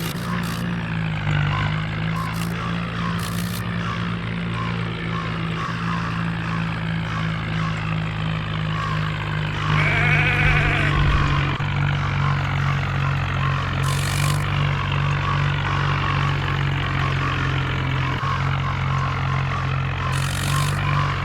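Swaraj 963 tractor's diesel engine running steadily under load, hauling soil, with a brief louder surge about ten seconds in.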